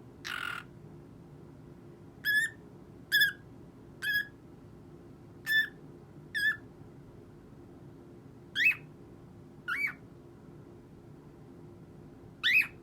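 Cockatiel giving short single chirping calls, about eight of them a second or so apart, the later ones sliding in pitch. A harsher, noisier squawk comes at the very start.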